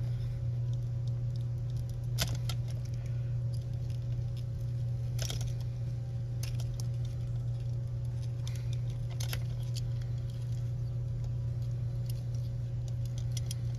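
Small plastic clicks and rattles of wire-harness plugs being pulled off a model locomotive's circuit board, a few seconds apart, over a steady low hum.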